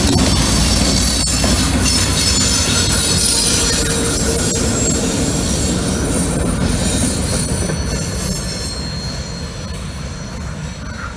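Short diesel-hauled freight train passing close by, its tank car and covered hopper cars rolling past with high-pitched wheel squeal and a few sharp clacks over rail joints. The sound is loudest as the locomotive goes by at the start and slowly fades as the train moves away.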